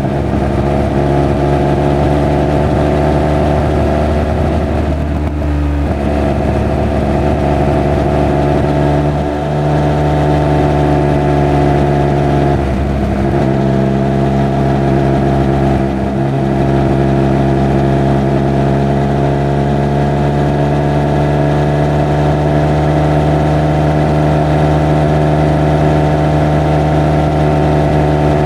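Triumph Speed Triple 1200 RR's inline three-cylinder engine and exhaust running at a nearly steady speed, its note briefly dipping four times.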